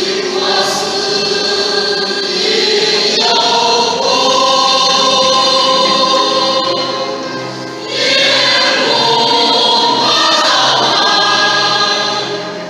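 A group of voices singing a hymn, held notes in long phrases with a short break about every four to five seconds.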